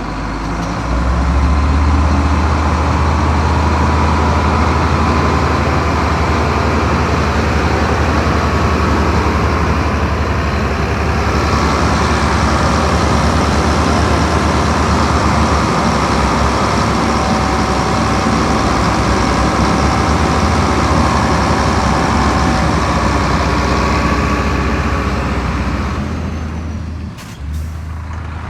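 Heavy diesel engine of earthmoving machinery working under load: a steady deep rumble, with added clatter and hiss through the middle part. It eases off near the end, with a few clicks.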